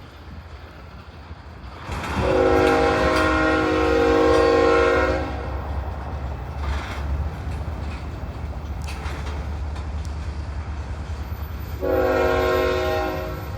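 Locomotive air horn sounding two blasts with several tones at once: a long one of about three seconds starting about two seconds in, and a shorter one near the end. Underneath, the train keeps up a steady low rumble.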